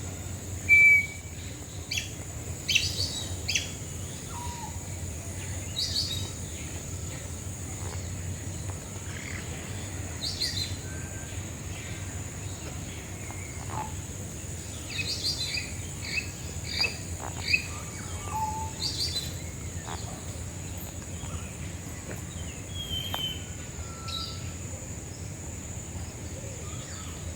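Birds calling in short separate notes and small bursts of quick repeated notes, loudest about a second in and again in a run of rapid notes past the middle, over a steady high-pitched hiss.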